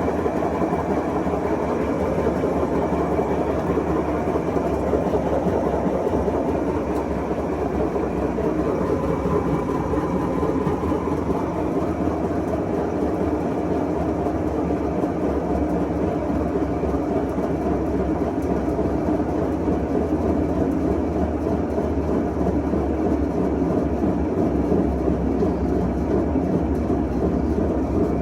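Washing machine in its spin cycle, running with a loud, steady rumble from bad drum bearings, ruined by water getting past a leaking tub seal.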